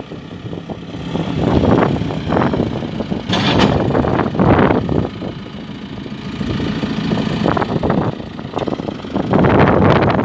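JCB 3CX backhoe loader's diesel engine running, its sound swelling and easing several times as it works.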